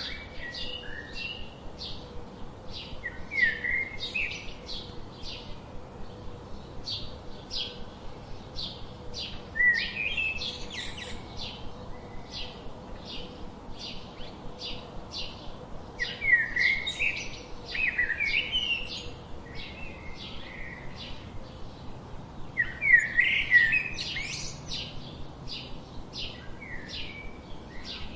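Songbirds calling: one bird repeats a short high note about twice a second, and louder twittering phrases break in every few seconds, the loudest near the end.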